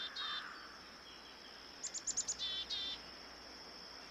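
Small songbird chirping: a quick run of about five short, high falling notes about two seconds in, then two buzzy trills, over a steady high insect-like drone.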